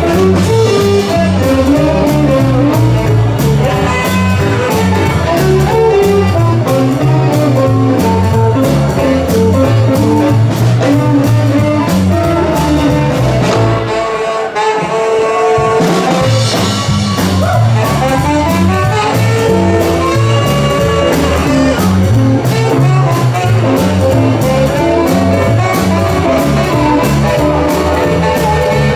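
Band playing an instrumental break in a swing and rock-and-roll style, with a stepping bass line under a steady drum beat and a lead line, where the tags suggest brass or saxophone and guitar. About halfway through, the bass drops out for a couple of seconds, then comes back in.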